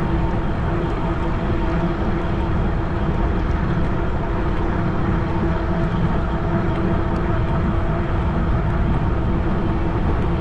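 Wind buffeting the microphone while riding a fat tire electric bike, with a steady hum from the bike underneath.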